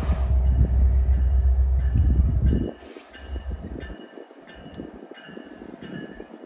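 A train passing: a heavy low rumble that drops away suddenly a little before halfway, then quieter clatter of railcar wheels with faint intermittent high ringing.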